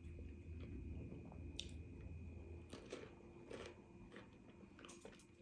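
Close-miked chewing of crunchy celery sticks, with a few crisp crunches scattered among quieter chewing.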